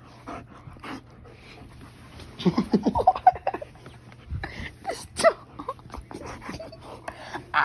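Pet dog tussling over a Croc shoe, giving a quick run of short growling calls about two and a half seconds in, followed by a few sharp clicks and scuffs.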